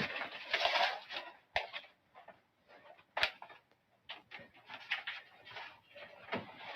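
Scattered rustling with light clicks and knocks, one sharper click about three seconds in.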